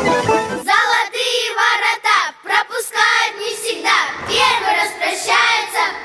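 Children's voices singing a Russian folk song with no accompaniment, after the instrumental music drops out about half a second in.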